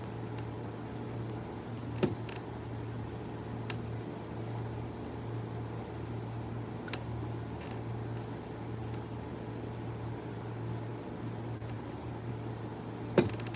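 Steady low machine hum, with a sharp click about two seconds in and another, louder, near the end.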